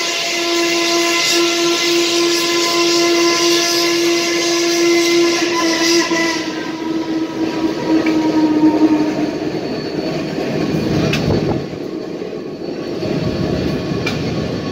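Steam locomotive whistle sounding one long steady blast of about nine seconds that fades away, followed by the running noise of the steam train with a sharp knock partway through.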